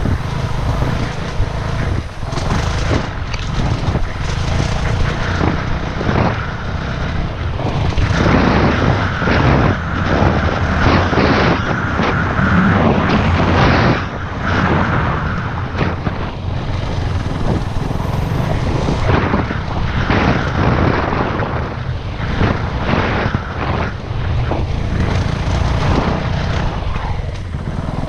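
Dirt bike engine running and revving on the move, rising and falling through the ride, over a dense rushing noise.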